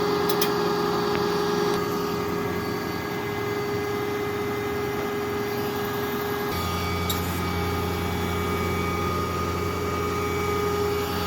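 Tow truck's engine idling steadily with a constant whine, a few sharp clicks at the very start; about six and a half seconds in the engine note drops into a deeper steady hum.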